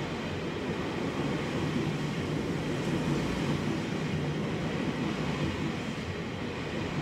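Tobu Tojo Line electric commuter train running past the platform, a steady rumble of wheels on rail that eases slightly near the end.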